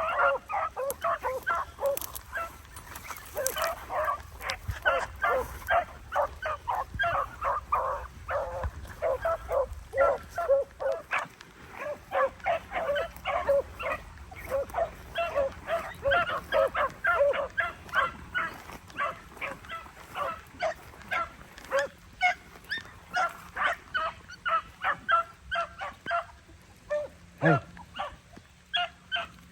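A pack of beagles baying on a rabbit's trail: short, quick barks from several dogs, overlapping and repeated several times a second, the chase going on without a break.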